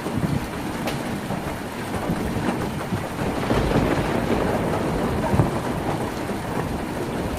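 Heavy rain pattering steadily on a tin roof: a dense, even hiss of drops with a deep low rumble underneath and scattered sharper drop hits.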